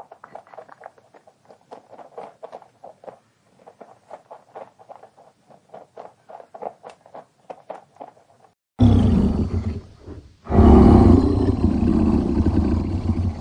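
A quiet run of rapid clicking pulses, then, about nine seconds in, a loud animal roar, a brief break, and a second long roar that tails off near the end.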